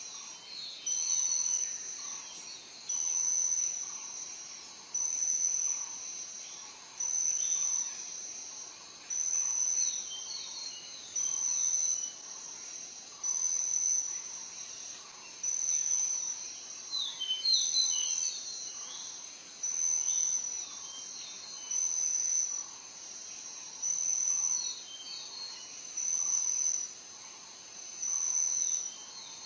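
An insect trilling in regular high-pitched pulses, each about a second long and coming about every two seconds, with a few short bird chirps scattered through, a cluster of them about halfway through.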